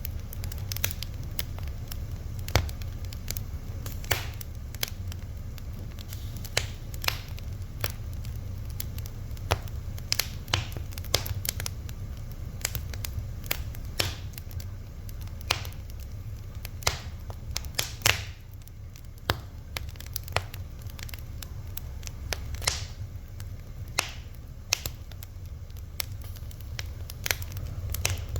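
Wood fire crackling: irregular sharp pops and snaps, a few louder ones standing out, over a steady low rumble of the flames.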